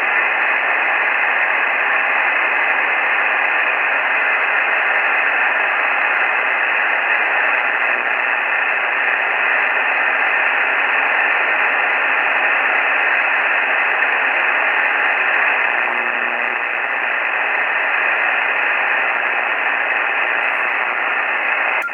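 HF radio receiver tuned to the 15-meter band, putting out steady, loud noise across its narrow audio passband. The operator believes it to be power line interference.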